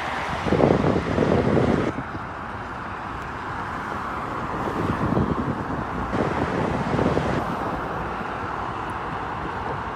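Steady road and wind noise of a moving vehicle, with a louder rushing stretch in the first two seconds.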